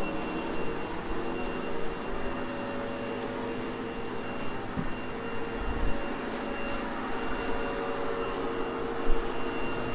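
Sebo X8 upright vacuum running steadily over carpet, its motor giving a thin high whine over a lower hum, with a couple of low bumps partway through.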